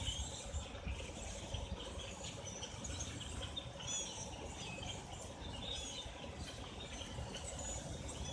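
A large flock of birds chirping, with many short, overlapping calls, over a low steady rumble.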